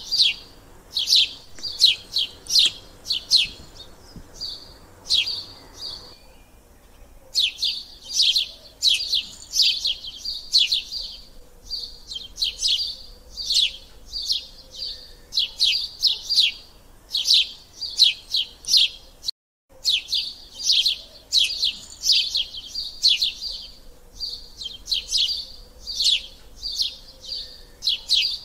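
A small bird chirping: quick runs of short, high chirps that repeat in groups with short pauses between them, broken by a momentary dropout about two-thirds of the way through.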